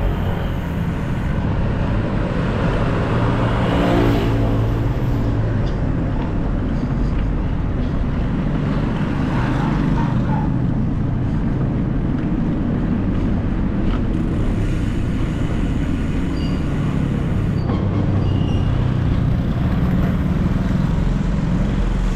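City street traffic: a steady low rumble of engines and tyres, with a vehicle engine passing close by near the start and again about four seconds in.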